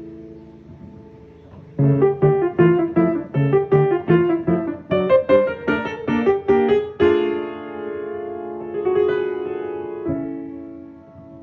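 Piano playing: a few held notes, then about two seconds in a quick, even run of short notes, about four a second, ending about seven seconds in on a held chord that dies away.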